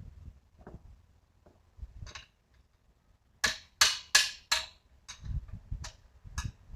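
Irregular sharp clicks and knocks of tools and hard parts being handled, with a quick run of four loud ones about three and a half seconds in.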